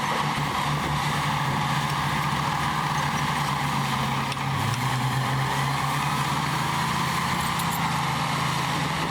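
Heavy diesel engine of earthmoving machinery running steadily, its note dropping slightly about halfway through.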